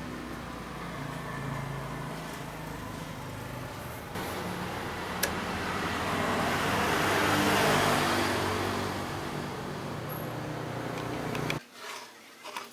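Steady road-traffic noise that swells to its loudest in the middle and then eases off, cut off abruptly near the end.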